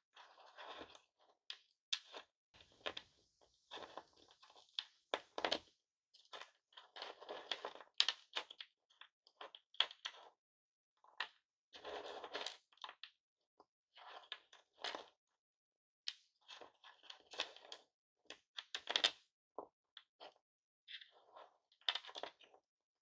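Pieces of smashed hard-candy lollipops being handled, clicking and crunching in irregular bursts of small sharp taps with short pauses between.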